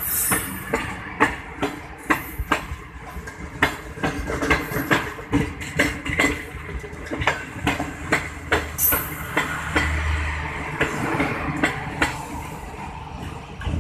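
Passenger train coaches rolling past close by: a steady rumble of steel wheels on rail with many sharp clicks and knocks as the wheels cross rail joints.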